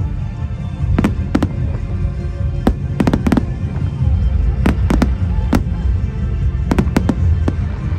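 Fireworks shells bursting: about a dozen sharp bangs, some in quick clusters about three, five and seven seconds in, over a continuous low rumble.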